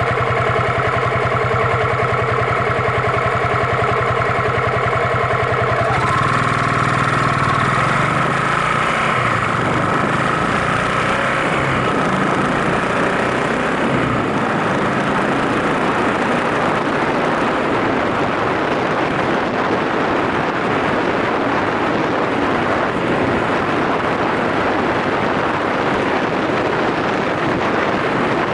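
Yamaha SRX400's single-cylinder engine idling steadily. About six seconds in, it pulls away and runs on the road with a rising note, and a rush of wind noise on the microphone joins it.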